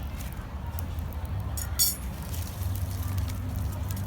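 Bonfire crackling with scattered small pops over a steady low rumble, with one sharp, ringing clink a little under two seconds in.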